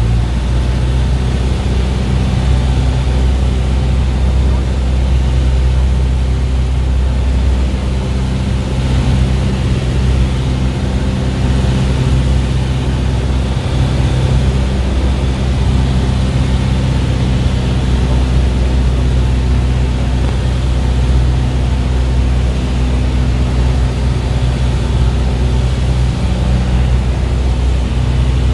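An engine running steadily: a loud, even low drone with a constant pitch and a noisy hiss above it, no change in level.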